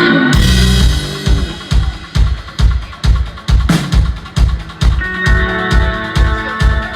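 Live rock band playing: a full drum kit comes in about a third of a second in with a steady kick-drum beat of about two hits a second and snare or rimshot strokes, under sustained guitar or keyboard tones that grow fuller near the end.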